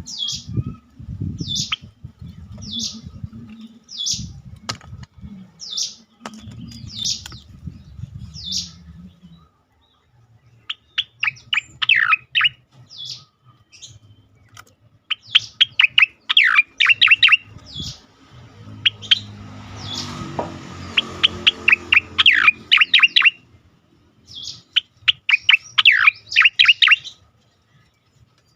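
Cica koreng (striated grassbird) singing its loud 'ngejoss' song: phrases of rapid, sharp chirps repeated with short pauses. A low rumble runs under the first nine seconds.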